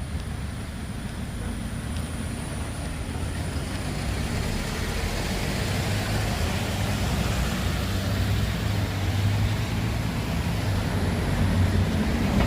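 A motor vehicle's engine running close by, a low rumble that grows gradually louder, over a steady hiss of street noise.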